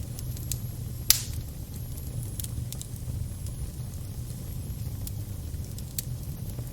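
Fire crackling over a steady low rumble, with scattered sharp pops and one loud pop about a second in.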